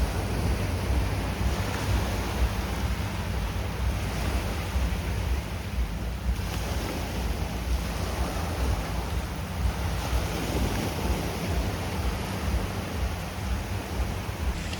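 Sea surf washing onto the beach, with wind buffeting the microphone in a low, gusty rumble.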